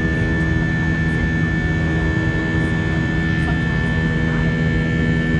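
Jet engines of an Airbus A320 heard inside the passenger cabin: a steady drone with a low hum, unchanging throughout, as the airliner climbs out after takeoff.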